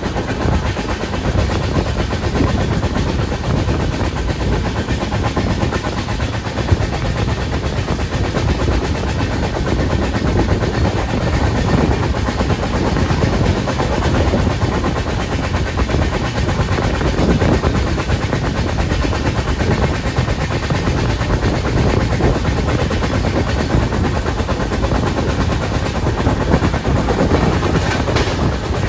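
Express passenger train running along the track: a steady, loud rumble and clatter of wheels on the rails.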